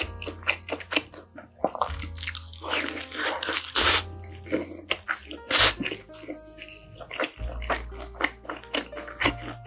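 Close-miked wet chewing of a mouthful of bacon Chicago-style pizza: squishy, smacking mouth sounds, with a louder stretch of chewing a couple of seconds in. Background music with a steady bass line plays underneath.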